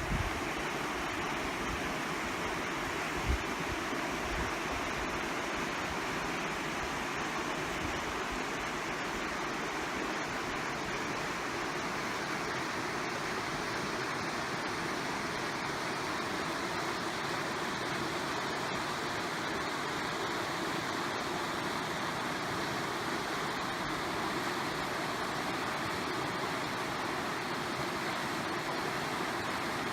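Mountain creek water rushing steadily, with a few low buffets of wind on the microphone in the first few seconds.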